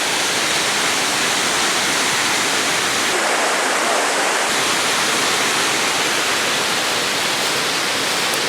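Waterfall rushing, a dense, steady noise of falling water, with its tone briefly thinner in the low end about three seconds in.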